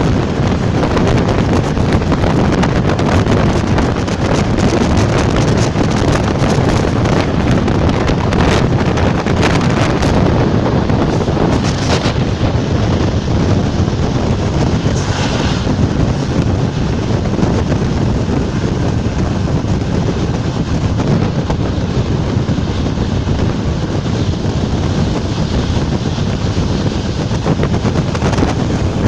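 Class 460 electric multiple unit running along the line: a steady rumble of the train in motion with heavy wind buffeting the microphone. Two brief higher hisses come about twelve and fifteen seconds in.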